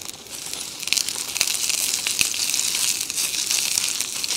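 Sausages and eggs sizzling and crackling in oil in a pan lid over a gas stove, with a carved wooden spatula scraping and turning them. The sizzle grows louder about a second in.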